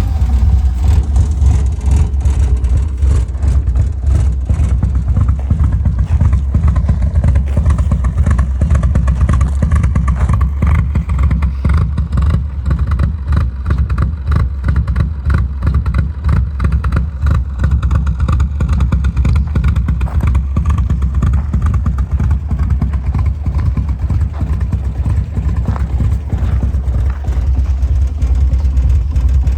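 A 1974 Triumph Spitfire's four-cylinder engine running through an aftermarket Monza exhaust, a loud, steady, deep exhaust note made of rapid even pulses.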